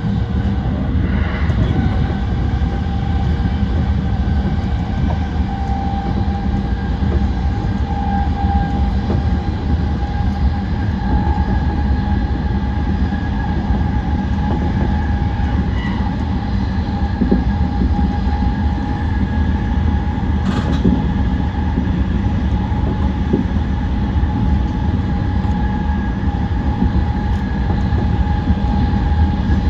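Yokosuka Line E235-1000 series electric train running at speed: a steady rumble of wheels on rail with a steady whine. A single sharp click comes about two-thirds of the way through.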